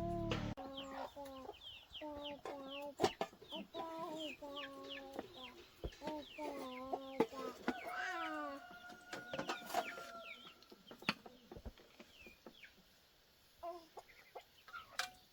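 Chickens clucking and calling in a series of short pitched calls, with quick high falling chirps among them. A few sharp clicks are mixed in, and the calls thin out about three-quarters of the way through.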